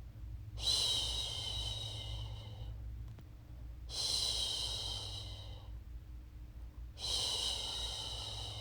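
A woman's voice shushing a baby, three long 'shhh' sounds about three seconds apart. Each starts sharply and tapers off over about two seconds.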